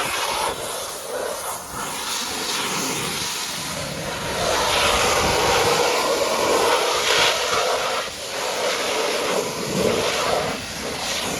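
Pressure washer's high-pressure water jet spraying against a truck, a continuous hiss whose tone shifts as the spray moves over the surface, a little louder from about halfway.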